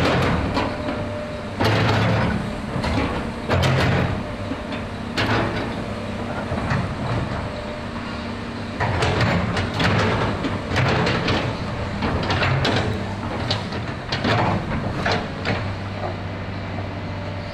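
Komatsu PC200 hydraulic excavator's diesel engine running, with repeated short surges in loudness and metallic clanking and rattling as the machine works.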